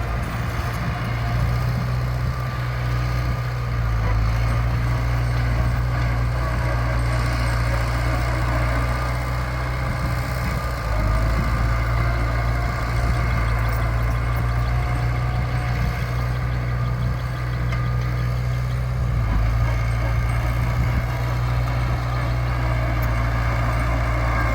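Heavy diesel earthmoving engine running steadily with a low, even drone.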